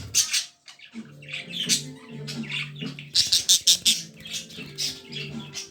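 Pet budgerigars chirping and chattering in quick, high repeated chirps, loudest about three to four seconds in, over background music with long held low notes.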